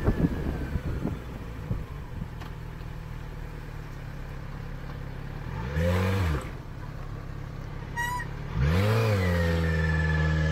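Yamaha motorcycle engine idling, blipped once with a quick rev about six seconds in, then revved and pulling away under throttle near the end, running louder and steady. A short high beep sounds briefly between the two revs.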